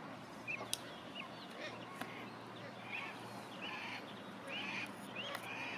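A bird calling: a run of short, high chirps, about two a second, coming a little faster in the second half.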